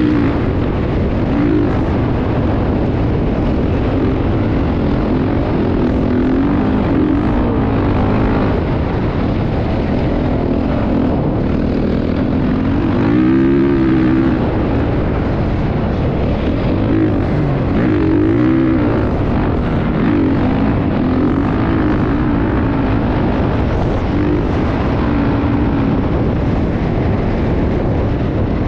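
Motocross bike engine running hard, its pitch rising and falling again and again as it revs up and drops back.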